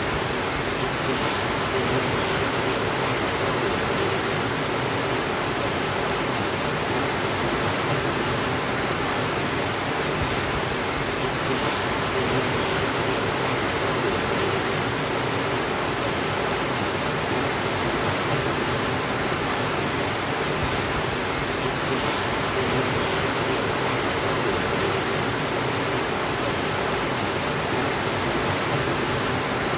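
Steady rainfall: an even, unbroken hiss with no changes in level.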